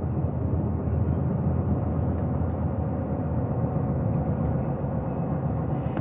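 Steady low road and engine noise inside a moving vehicle's cab.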